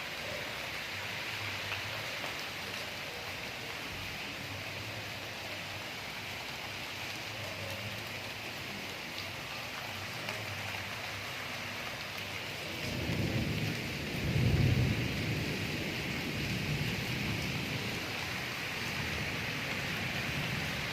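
Steady hiss of heavy rain. About thirteen seconds in, a low rumble of thunder swells, peaks a second or so later, and fades back under the rain.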